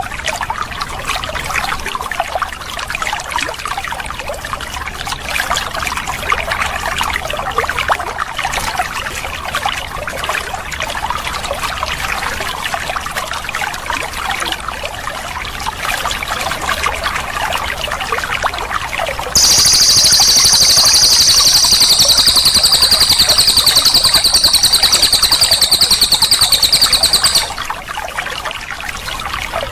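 Water trickling and splashing steadily. About two-thirds of the way in, a cililin songbird breaks into a loud, high, very fast rolling trill. The trill holds for about eight seconds and then stops abruptly, leaving the water alone.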